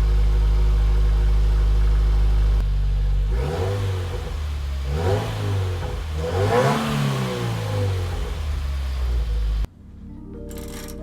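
Subaru WRX turbocharged flat-four idling through its stock exhaust, then revved three times, each rev rising and falling in pitch, before settling back to idle. The engine sound cuts off abruptly near the end.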